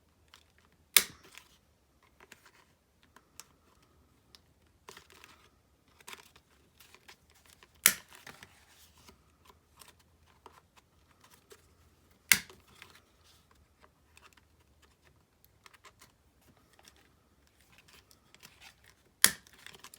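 Corners of a paper card being rounded off with a corner-rounder punch: four sharp clacks a few seconds apart, one per corner, with light paper rustling between them.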